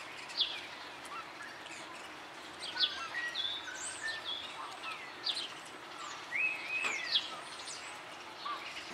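Birds calling over a steady outdoor hiss: short chirps and quick falling calls are scattered throughout.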